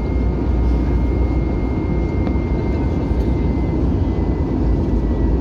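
Airbus A321-200 heard from inside the passenger cabin: a steady jet-engine and airflow rumble with a thin, constant high whine over it.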